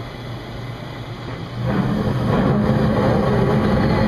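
York rooftop HVAC unit starting up on a call for heat: a steady running noise, then about a second and a half in it turns louder with a steady low hum as more of the unit comes on.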